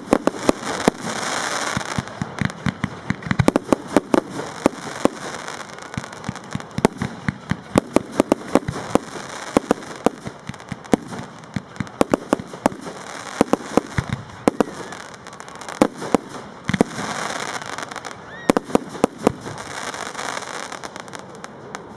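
A fireworks display: aerial shells and crackling stars bursting in a fast, irregular string of sharp bangs and crackles, several a second.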